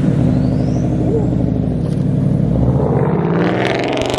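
Turbocharged four-cylinder engine of an Alfa Romeo Giulia pulling away under throttle, its note building toward the end with the hiss of turbo spool.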